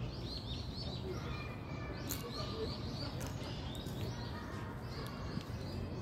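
Several birds chirping and calling in quick, short repeated notes, over a steady low background rumble.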